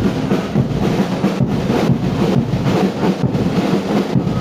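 Heavy rain pelting down close to the microphone: a loud, dense, steady patter that starts abruptly just before.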